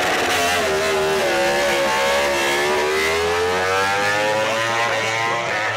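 MotoGP racing motorcycle's four-cylinder engine: the pitch falls as it slows and shifts down, then climbs steadily as it accelerates hard again from about halfway through.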